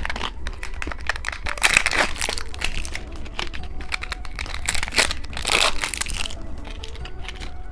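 Plastic candy wrappers crinkling as they are handled and opened, in irregular crackles.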